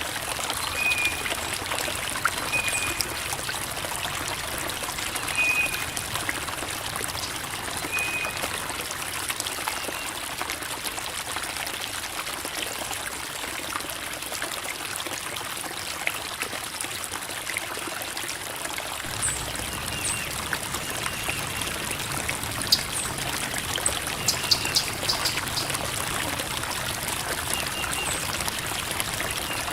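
Creek water babbling and trickling over rocks, a steady rush of water. Short high chirps come every two or three seconds in the first part, and a low rumble joins the water about two-thirds of the way through.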